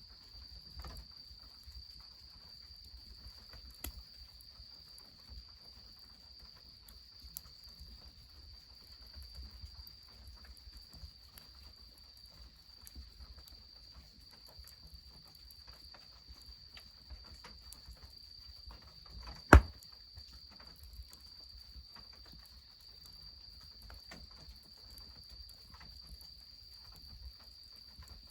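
Crickets chirring steadily in a continuous high trill, over a low rumble and scattered faint ticks. A single sharp crack, much louder than everything else, comes about two-thirds of the way through.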